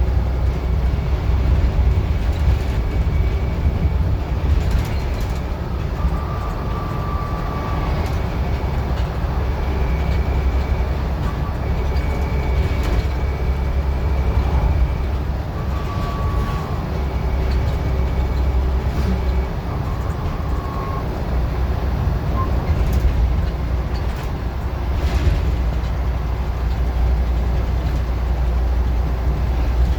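Scania N94UD OmniDecka double-decker bus engine running under way, heard from on board as a deep drone that lets up briefly a couple of times, with occasional rattles and clicks from the body.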